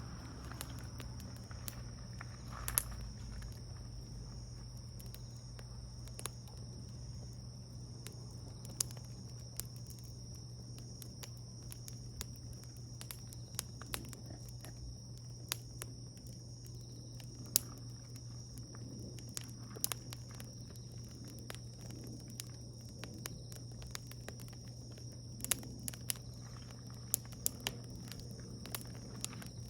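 Wood fire crackling: sharp pops and snaps at irregular intervals, bunching together near the end.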